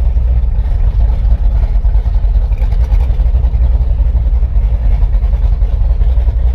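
572 cubic inch big-block V8 in a 1956 Chevy Bel Air running steadily through open headers: a loud, even, low rumble with no change in speed.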